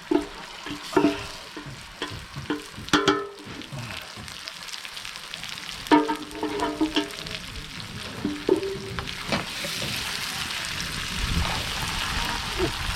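A metal utensil clinking and scraping against a cooking pot several times, then from about nine seconds in, a steady sizzle of food frying in hot oil.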